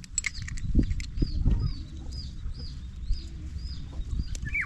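Chickens clucking, with a short high chirp repeating about two to three times a second. There are a few dull knocks about a second in.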